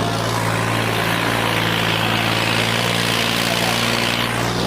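Tractor's diesel engine running with a steady drone, and a rushing noise that swells about a second in and fades near the end.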